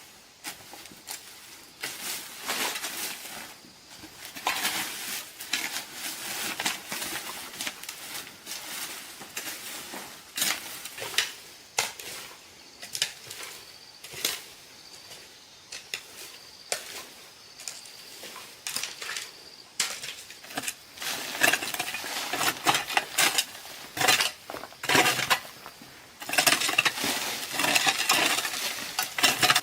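Hard objects being handled: irregular clinks, knocks and scrapes, coming thicker and louder in the last third.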